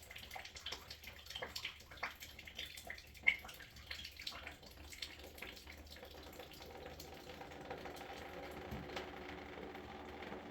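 Water dripping and splashing from an open water-heater supply line whose shut-off valve will not fully close, with many small drips and taps over the first several seconds, then a faint steady trickle.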